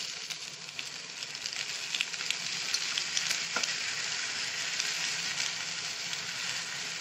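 Sauced potato, capsicum and onion stir-fry sizzling steadily in a hot non-stick kadai, with scattered light crackles over the hiss.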